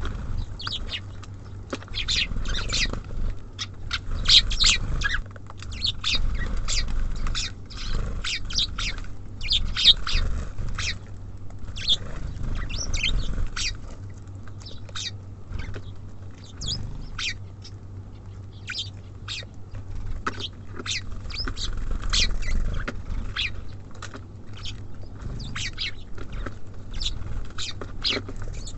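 Small songbirds at a bird feeder chirping in many quick, high, short notes, with a steady low hum underneath.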